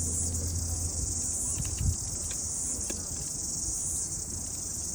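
Steady, high-pitched chorus of insects chirring without a break, with a low hum fading out during the first second and a single soft thump about two seconds in.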